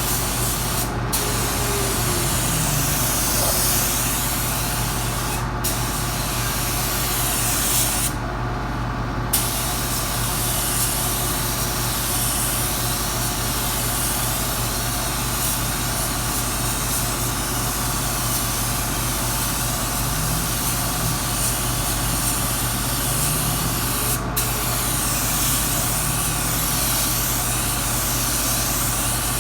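Compressed-air paint spray gun hissing steadily as it sprays automotive paint, stopping briefly about four times, once for over a second. A steady low hum runs underneath.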